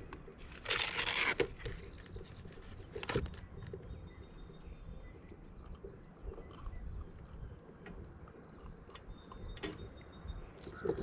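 Small-boat handling noise on a kayak: a short rush of noise about a second in and a sharp knock near three seconds, with a few thin high chirps over quiet background.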